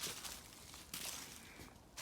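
Footsteps on the forest floor, two steps about a second apart.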